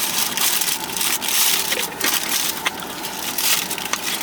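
Paper food wrapper being handled and unwrapped, crinkling and crackling loudly in quick irregular bursts.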